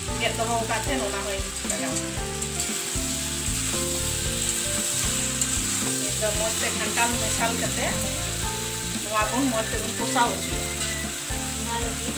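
Jackfruit, potato and shrimp curry sizzling in oil in a steel kadai, with a steel spatula stirring and scraping now and then against the pan.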